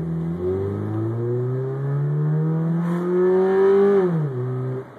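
Subaru Legacy engine accelerating hard under load, with its air intake removed and nothing ahead of the throttle plate, so the intake noise comes through unmuffled. The pitch climbs steadily toward about 6,000 rpm, drops sharply about four seconds in, and fades near the end.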